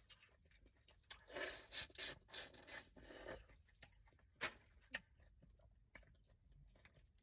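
Close-up eating sounds of crawfish boil food: a couple of seconds of chewing and crunching, then a few separate sharp clicks.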